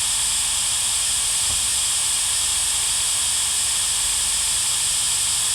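Steady, loud static hiss, even throughout and strongest in the high range.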